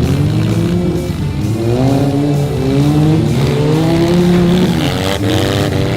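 Several demolition derby cars' engines revving and running together, pitches rising and falling in overlapping waves.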